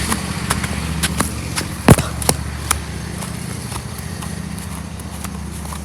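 Tractor engine running steadily and slowly fading, with several sharp clicks and knocks over the first few seconds, the loudest about two seconds in.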